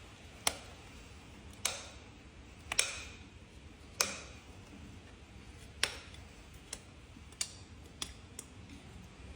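About nine or ten sharp, irregular clicks, roughly one a second, each with a brief ring: hoof-trimming tools cutting into hoof horn.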